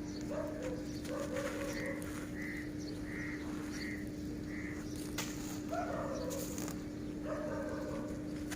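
Birds calling outdoors: crow-like caws and a run of five short, evenly spaced calls, over a steady low hum. A few short, sharp crackles come after the middle.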